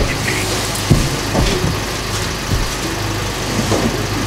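A car engine idling steadily, with several knocks as large cardboard boxes are pushed into the car's boot.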